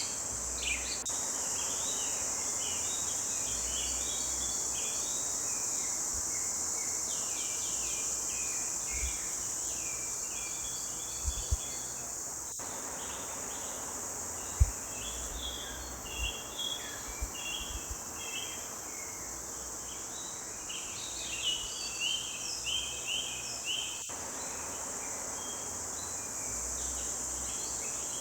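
Forest songbirds chirping and trilling in quick bursts over a steady, high-pitched insect buzz. A few brief low thumps come near the middle.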